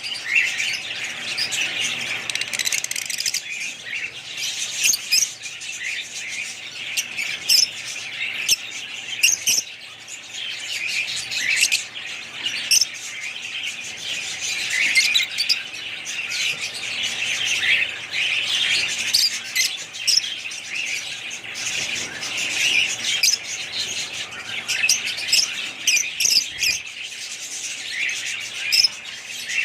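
A flock of small birds chirping and twittering continuously, many calls overlapping, with frequent sharp high chirps.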